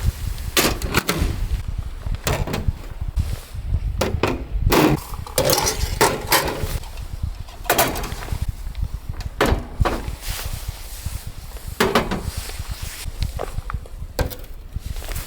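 Strong wind buffeting the microphone as a steady low rumble, with about a dozen irregular knocks and clatters mixed in.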